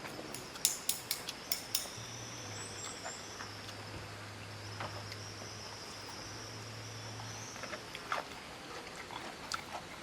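A quick run of about six sharp clicks in the first two seconds, then scattered fainter ticks, over a steady high-pitched background buzz.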